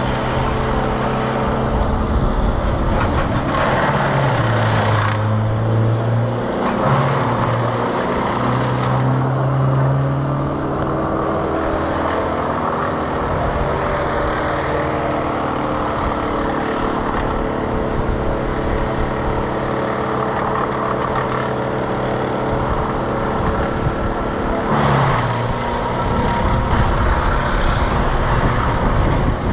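An engine running throughout, mostly at a steady speed, with its pitch rising and falling a few times in the first third and shifting again near the end.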